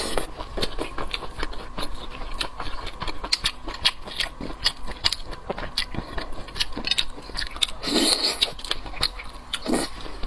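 Close-miked eating: rapid, irregular cracking and crackling of crayfish shells being broken and peeled, mixed with chewing. There is a louder burst of noise about eight seconds in.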